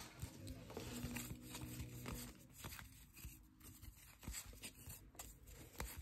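Faint handling of baseball trading cards: soft scattered clicks and slides as cards are flipped through one by one. A faint low hum sits under the first two seconds.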